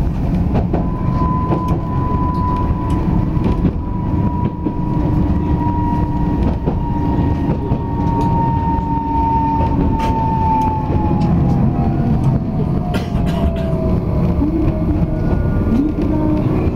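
Tokyu Setagaya Line 300-series tram running, heard from inside the car: a steady low rumble with scattered clicks, and a high whine that holds steady and then drops in pitch about two-thirds of the way through as the tram slows for the next station.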